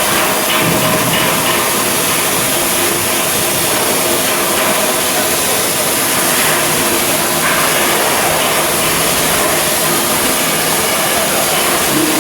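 Steady, loud machinery noise with a strong hiss running throughout.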